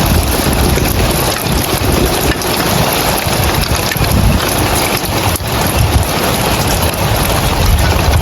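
Heavy rain falling on roof tiles, a dense steady hiss, with a low rumble of wind on the microphone that comes and goes.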